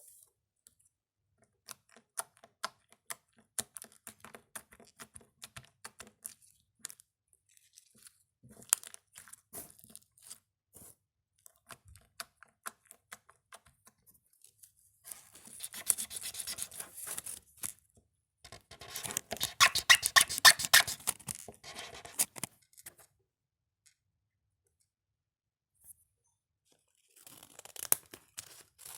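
Close-up ASMR handling sounds with no voice. Scattered sharp clicks and crackles come first. Two longer, dense bursts of tearing-like crackle follow around the middle, the second one the loudest. After a short quiet gap, more crackling comes near the end.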